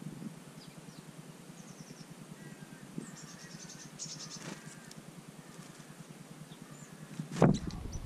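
Small garden birds calling with a few high, thin chirps and a quick ticking series about four seconds in. Near the end a single sharp knock, the loudest sound, comes as a bird lands on the hanging plastic seed feeder, and a low rumble follows it.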